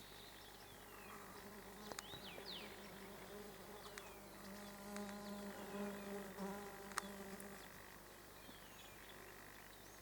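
A flying insect buzzing near the microphone: a steady drone that comes in about two seconds in, is loudest in the middle, and stops a couple of seconds before the end.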